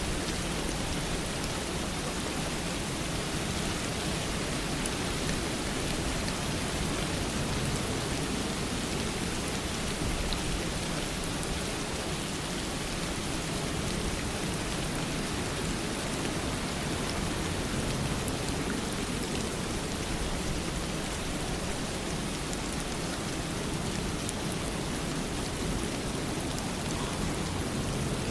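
Steady rain falling and pattering on surfaces, an even hiss of many fine drops that does not let up.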